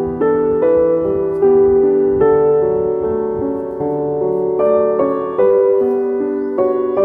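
Gentle background piano music, slow sustained notes and chords changing about every half second to a second.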